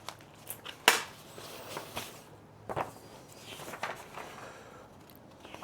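A few scattered light clicks and knocks, like handling or small movements, over a faint steady hum.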